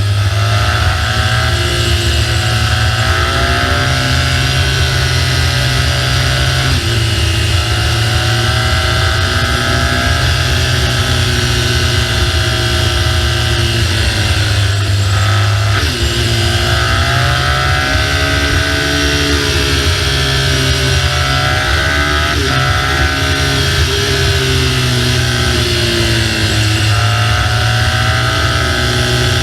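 BMW R1200GS flat-twin engine running under way, its pitch rising and falling every few seconds as the throttle is opened and closed, over a steady rushing noise.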